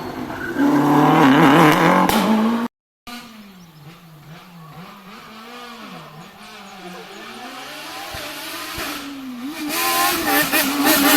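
Rally car engines at full throttle, the revs rising and falling sharply through gear changes. After a sudden cut, another car is heard further off, its revs swinging up and down as it works through the stage, and it grows loud as it comes close near the end.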